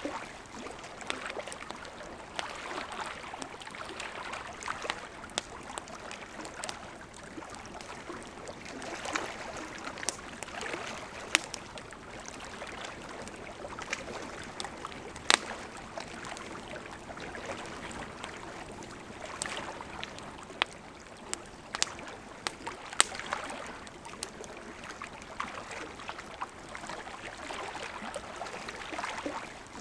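Wood campfire burning, with a steady hiss under frequent small crackles and a few louder sharp pops scattered through.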